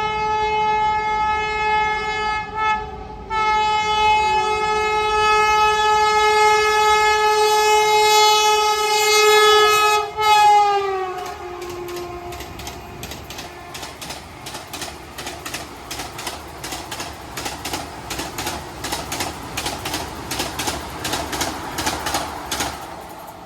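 Vande Bharat Express train passing: its horn sounds one short and then one long loud blast, dropping in pitch as the train goes by. The horn is followed by a fast, even clickety-clack of wheels over the rails, about three clacks a second, a clatter the uploader puts down to damaged track.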